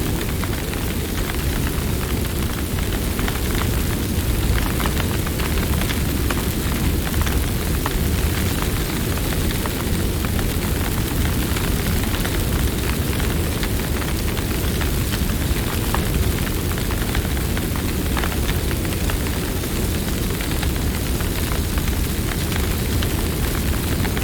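Campfire burning: a steady low rumble of flames with faint, scattered crackles and pops throughout.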